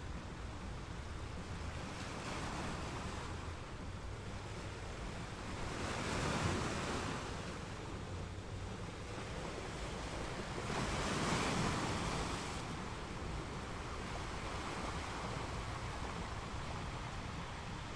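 Sea waves washing in, a steady hiss and low rumble of surf with two louder waves, one about a third of the way in and one about two-thirds in.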